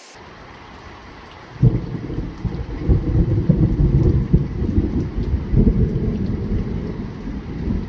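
Thunder: a sudden clap about a second and a half in, then a long, loud rolling rumble that swells and fades in waves, over light rain.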